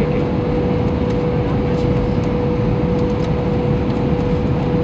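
Steady cabin noise inside an Airbus A321: an even rumble of engines and airflow with a steady hum running under it, unchanging throughout.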